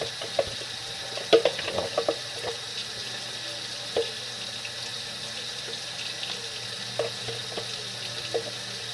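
Water running from a tap into a sink, with scattered short knocks and clicks as plastic parts of a bagless vacuum are handled in it.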